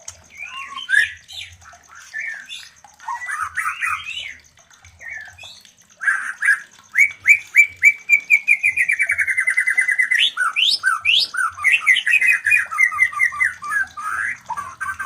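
White-rumped shamas in breeding condition singing and calling: varied whistled phrases, then from about six seconds in a loud, fast run of repeated notes that slides gently lower, followed by quick rising notes and more rapid note series. A faint steady high ticking runs behind.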